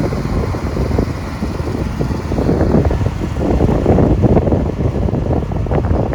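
Wind buffeting the microphone: a continuous uneven low rumble in gusts.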